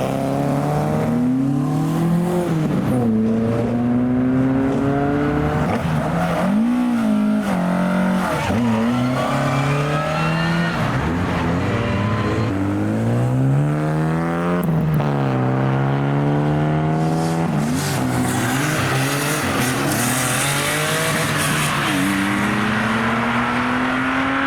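Ford car engines revving hard as they pull away one after another, their pitch climbing and dropping again and again through the gear changes.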